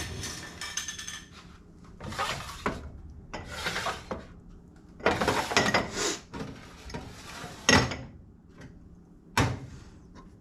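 Kitchen handling noise: dishes and utensils clattering and scraping in several short bursts, ending in one sharp knock about nine seconds in.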